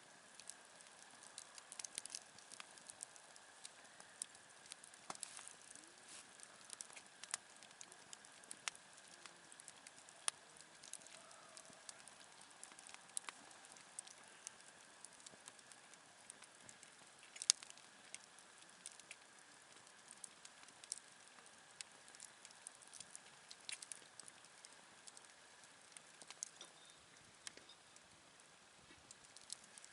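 Quiet wood campfire crackling, with irregular sharp pops and ticks and one louder pop about seventeen seconds in.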